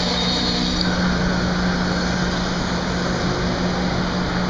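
Metra commuter train's bilevel gallery coaches rolling past at close range: a steady noise of wheels on the rails with a constant low hum underneath.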